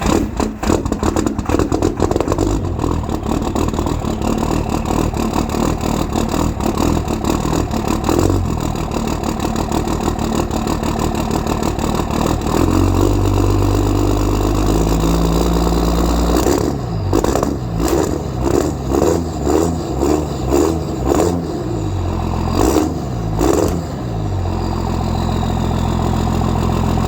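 Cummins diesel engine idling just after a cold start, with heavy knocking clatter that evens out into a steadier note about halfway through. It is then revved in a string of quick blips before settling back to a steady idle near the end.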